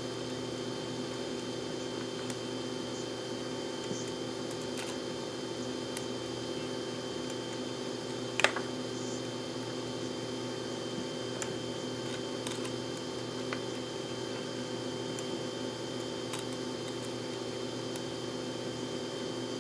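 Steady background hum, with a few light clicks scattered through and one sharper click about eight and a half seconds in, as small tools and parts are handled while working on an RC car.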